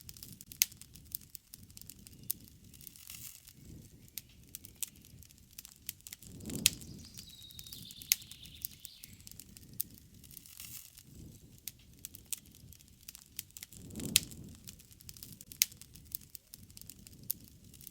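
Wood campfire crackling, with frequent sharp snaps and pops and a low rush of the fire swelling up twice. A faint bird call comes in about halfway through.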